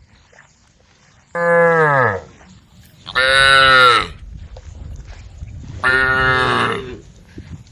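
Cows mooing: three loud calls about a second apart, the first sliding down in pitch at its end, as cows call to the herd.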